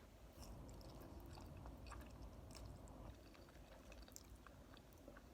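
Faint chewing of noodles, with scattered small wet mouth clicks.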